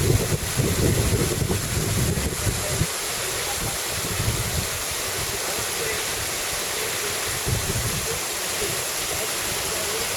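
Steady rush of falling water from a waterfall, with wind buffeting the microphone in gusts over the first few seconds.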